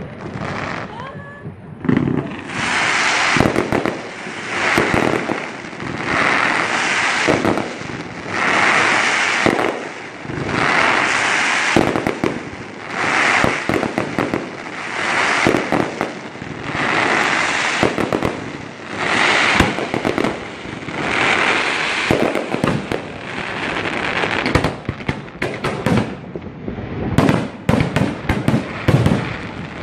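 A consumer fireworks battery firing shot after shot, each swelling into a crackling burst, about one every two seconds. Near the end it gives way to a quick run of sharp cracks.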